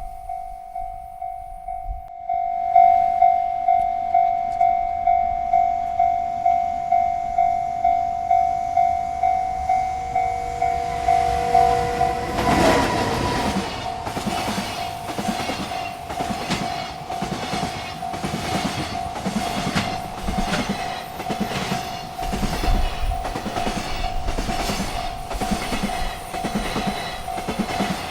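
A railroad crossing bell rings steadily at about two strikes a second. About halfway through, a freight train reaches the crossing and its cars rumble past with a regular clack of wheels over the rail joints, the bell still ringing.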